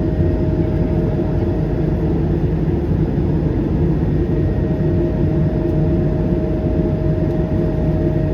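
Cabin noise in an Airbus A220-300 from a window seat: the Pratt & Whitney PW1500G geared turbofan engines running with a loud, steady low rumble. A steady hum runs over it and drops out for about two seconds after the first couple of seconds.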